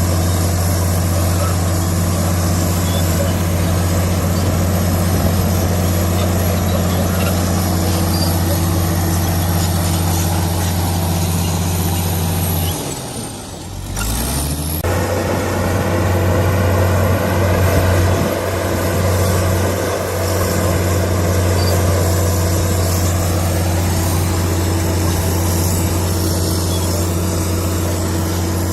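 Komatsu D65PX bulldozer's diesel engine running steadily; a little under halfway through its pitch drops sharply and the sound dips for a second or two, then it runs steadily again.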